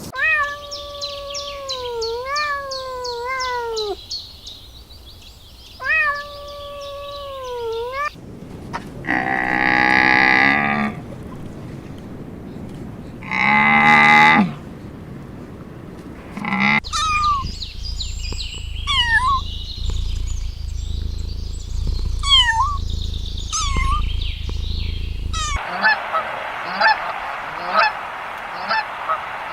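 Geese honking in a string of short clips: repeated calls that bend in pitch, two long loud calls in the middle, then shorter, higher chirping calls. The sound changes abruptly three times.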